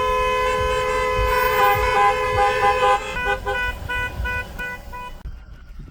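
Car horns honking in traffic: one long held blast for about three seconds, overlapped by short toots, then a quick run of short beeps that stops about five seconds in, over a low traffic rumble.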